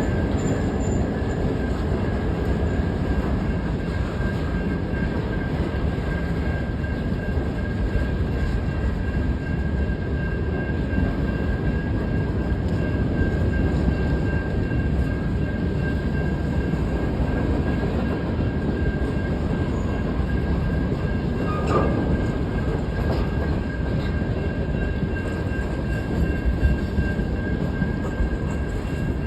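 A train rolling past at close range: a steady, unbroken rumble of wheels on rails, with a thin, steady high whine running over it the whole time.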